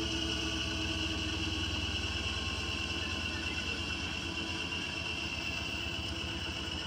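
Washing machine on a spin cycle: a steady motor hum with a fast, even pulse and a constant high whine, easing off slightly.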